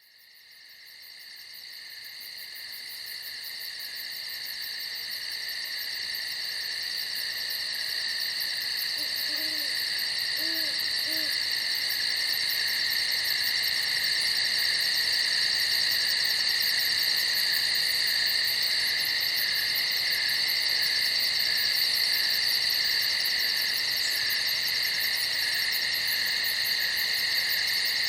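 A chorus of crickets chirring steadily at several high pitches, fading in from silence over the first several seconds. A few faint low hoots come about ten seconds in.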